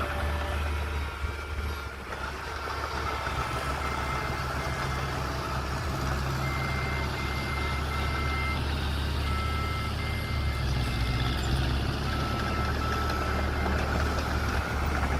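Mini bulldozer's diesel engine running steadily while its reversing alarm beeps repeatedly, in short even beeps.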